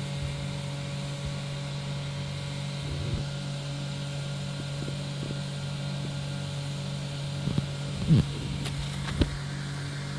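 Engine running at a steady idle, a constant low hum. A few short knocks or thuds sound about three quarters of the way through, the loudest just after eight seconds in.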